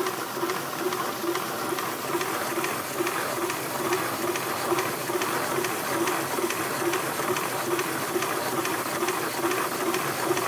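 Rovinka tabletop electric stone wet grinder running, grinding soaked urad dal into idli batter: a steady mechanical whir with a regular pulse about three times a second.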